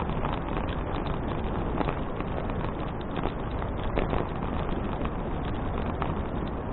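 Wind rushing over an action camera's microphone on a moving bicycle, with a constant patter of small rattling clicks from the bike and the rough path.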